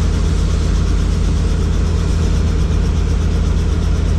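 Helicopter engine and rotor running steadily: a loud, even drone that does not change.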